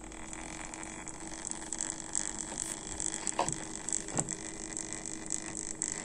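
Pump of a Deepcool Gammaxx L120T all-in-one liquid CPU cooler running: a steady hum with crackling, gurgling coolant and two soft knocks in the middle. This is the pump noise that is a typical fault of this cooler.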